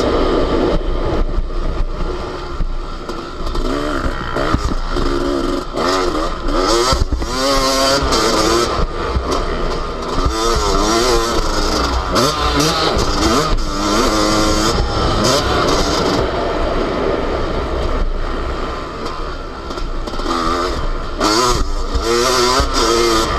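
Yamaha YZ250 two-stroke motocross engine revving hard and falling back again and again, the pitch climbing and dropping every second or so as the rider opens and closes the throttle around a rough track.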